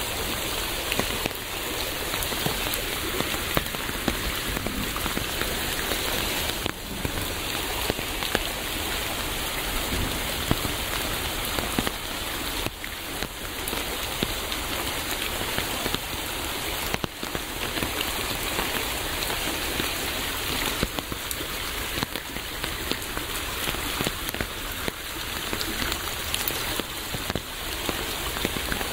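Steady rain: a dense, even patter of many drops, with sharp ticks of single drops among it.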